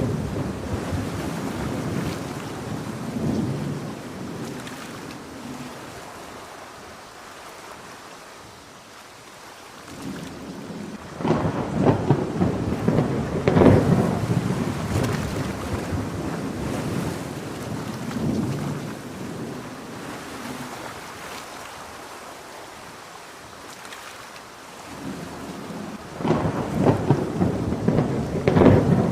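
Steady heavy rain with rolling thunder: a thunder roll fading out over the first several seconds, a new crackling roll about eleven seconds in, and another starting near the end.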